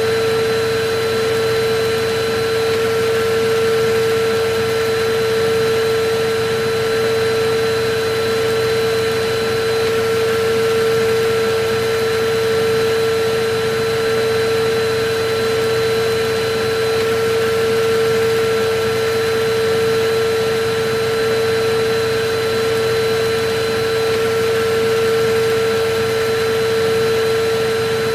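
Electric vacuum cleaner running steadily: a strong steady motor hum over an even hiss of air, with fainter high whines above it.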